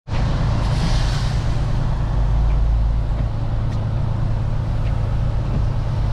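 Semi truck's diesel engine running steadily while driving, heard from inside the cab as a continuous low drone with road noise.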